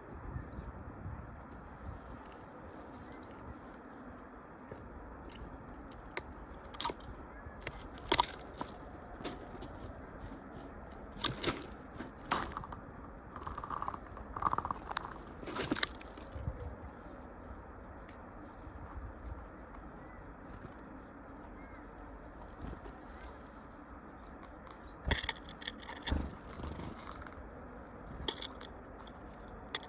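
A small songbird repeating the same short high phrase every few seconds, while birds at the feed make sharp taps and wing flutters, busiest around the middle and again near the end.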